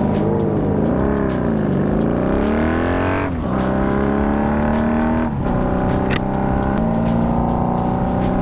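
Honda Magna motorcycle engine under way. The revs rise and fall twice, then climb steadily. They drop sharply about three seconds in and again about five seconds in, as the rider shifts up through the gears, and then hold at a nearly steady speed.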